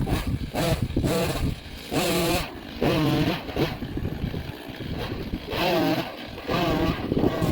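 Gas chainsaw revving up and down in repeated bursts of throttle while cutting firewood.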